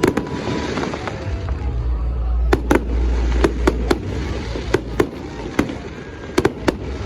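Fireworks display: about a dozen sharp bangs and cracks from bursting shells, coming in quick clusters, over a steady low rumble.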